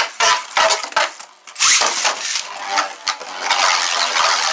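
Beyblade tops in a Beyblade stadium: sharp clicks and knocks in the first second and a half, then from about three and a half seconds in a steady scraping whir of the tops spinning and grinding against each other and the stadium floor.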